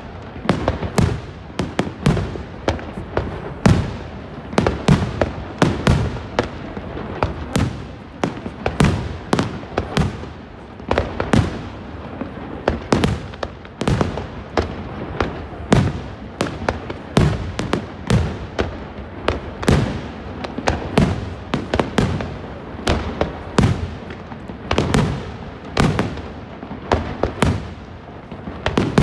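Fireworks display: a steady, rapid barrage of aerial shells bursting, about two sharp bangs a second with no let-up.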